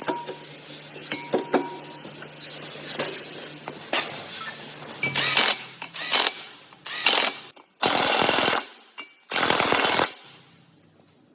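Light clinks and knocks of metal tools, then a pneumatic air tool firing in five loud short bursts, the last two the longest.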